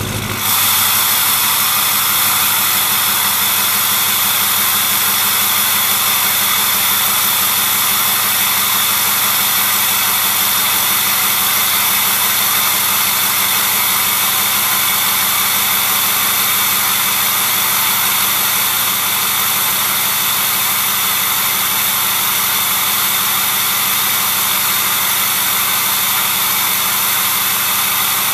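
Ford 6.0 Powerstroke V8 turbo diesel idling steadily through a straight-piped 4-inch stainless turbo-back exhaust with no catalytic converter or muffler. The sound is a steady high hiss over the engine's even running.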